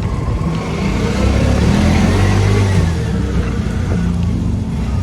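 Road traffic: a car engine running and speeding up close by.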